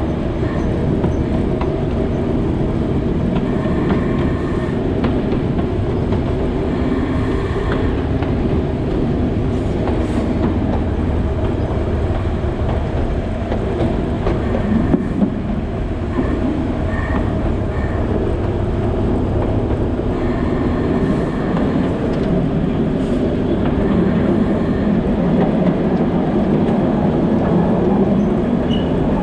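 Alishan Forest Railway narrow-gauge train running steadily through the forest: a continuous rumble of wheels on the rails with scattered light clicks.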